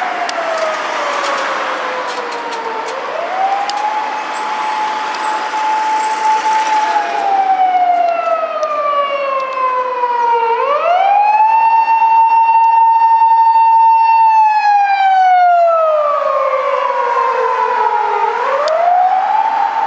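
Siren of a Japanese police patrol car, a 210-series Toyota Crown, on an emergency run. It is a slow wail: the pitch rises quickly, holds high for a few seconds, then falls slowly, repeating about every eight seconds.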